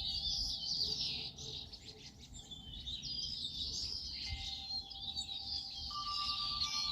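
Many small birds chirping and trilling at once in a continuous chorus. Soft held musical tones join underneath about four seconds in, with a second, higher tone entering near the end.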